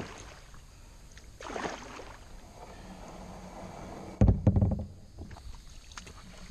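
Kayak paddle strokes swishing through the water, twice in the first two seconds, then a cluster of loud low bumps about four seconds in.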